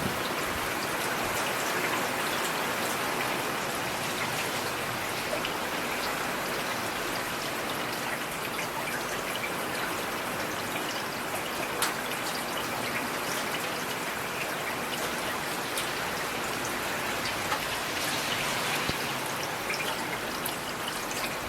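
Steady rain falling: an even, dense hiss with scattered sharper ticks of individual drops striking a surface.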